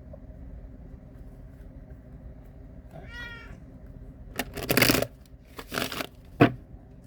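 A pet cat meows once, briefly, about three seconds in. Three loud rustling noises follow over the next two seconds.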